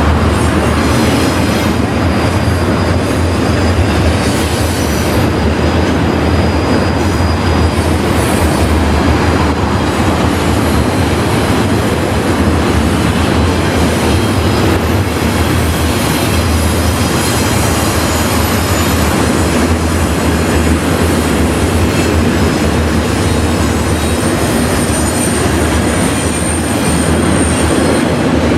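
Freight train cars rolling past in a steady, loud rumble, with faint high wheel squeal on and off.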